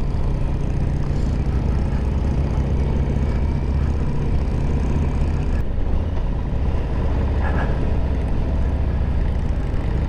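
Harley-Davidson Road Glide's V-twin engine running steadily while riding, with wind and road noise; its note shifts a little over halfway through.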